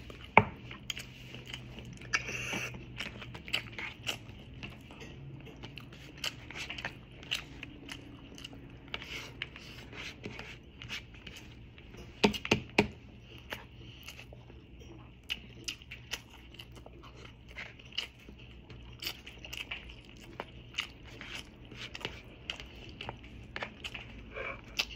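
Close-up eating sounds: a person chewing and biting food, with many short crunches and clicks scattered throughout and a few louder ones about half a second in and around twelve seconds in.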